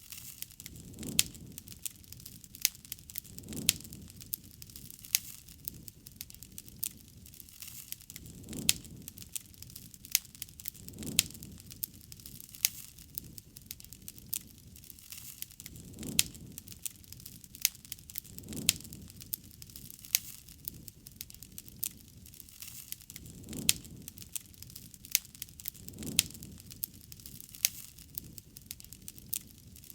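Wood campfire crackling, with frequent sharp pops and snaps and a soft low rush of flame that swells every couple of seconds.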